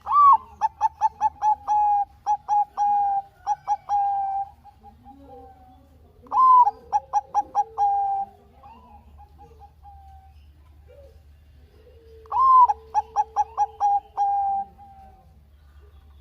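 Zebra dove (perkutut, Bangkok type) singing three full song phrases about six seconds apart. Each opens with a high rising-and-falling note, runs into a quick string of short clipped coos, and ends on a longer held note. Fainter, lower cooing sounds under and between the phrases.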